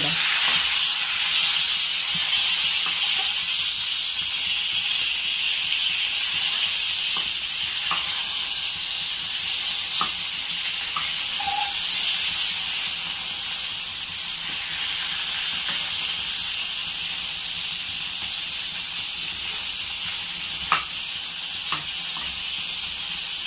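Eggplant shallow-frying in hot oil in a non-stick kadai: a steady sizzle that slowly eases, with a few light clicks of the spatula against the pan, two sharper ones near the end.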